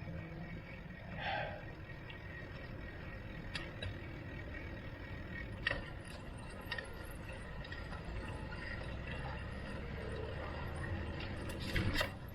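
Steady low rumble of road and wind noise while riding a bicycle, with a few sharp clicks and rattles from the bike.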